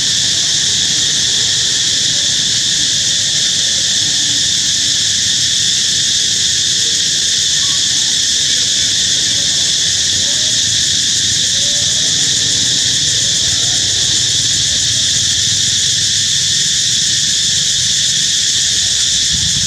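Steady, loud chorus of insects, a continuous high-pitched drone, with a few faint short calls underneath.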